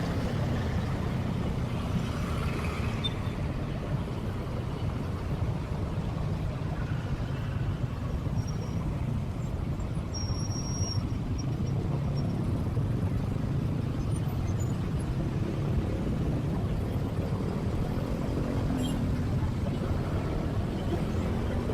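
Motorcycle engine running under way with road and wind noise, its pitch rising and falling near the end.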